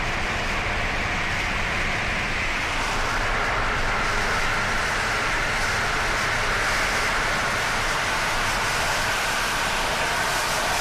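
Gas pipeline being vented: a loud, steady roar of escaping gas that swells slightly through the middle.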